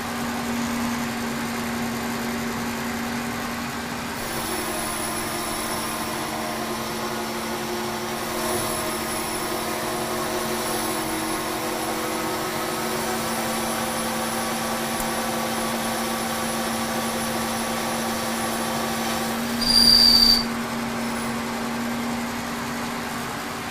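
K&T 2HL horizontal mill, set up as a lathe, running with its spindle turning the workpiece, a steady machine hum with cutting noise. There is a brief louder burst with a high squeal near the end.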